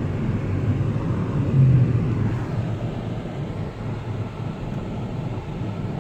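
Steady low rumble of road and engine noise heard inside a moving car's cabin, swelling briefly about one and a half seconds in.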